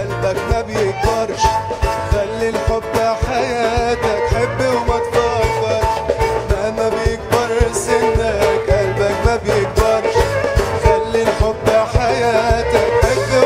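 Live band playing an instrumental passage of an Egyptian indie-folk song: a wavering melody line over a steady drum beat.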